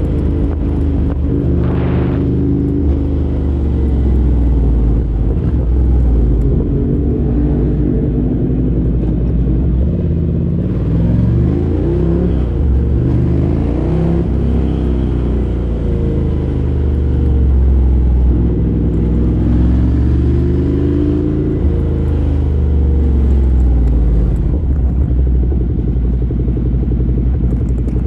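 A 2017 Ducati Monster 797's air-cooled L-twin engine, breathing through a LeoVince LV-10 aftermarket exhaust, running under way; its pitch rises and falls repeatedly as the rider accelerates, shifts and rolls off the throttle.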